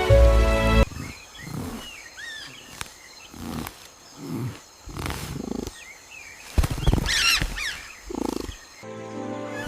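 Animal sound effects: a string of short low grunting calls mixed with high, curving bird-like chirps and squawks, with music briefly at the start and again near the end.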